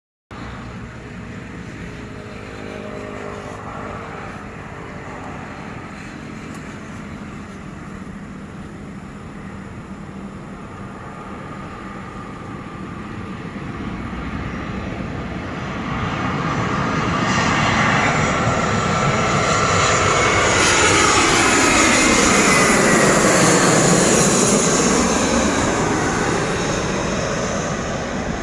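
Airliner on landing approach passing low overhead. Its engine noise builds over several seconds, peaks with a sweeping, phasing rush as it goes by, then eases off.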